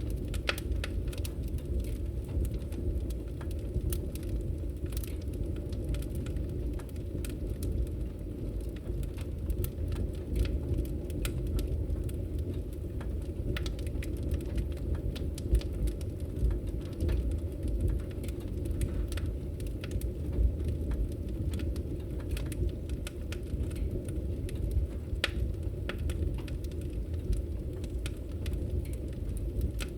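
Wood fire crackling in a fireplace: frequent sharp pops and snaps, a few louder than the rest, over a steady low rumble.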